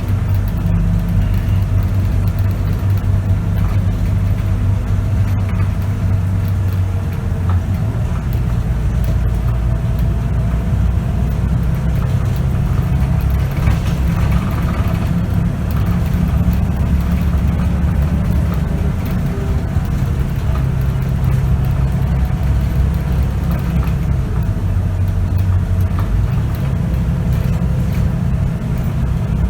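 Scania K94UB bus's diesel engine and ZF automatic gearbox running under way, heard on board. The engine note drops about a quarter of the way through and rises again near the end.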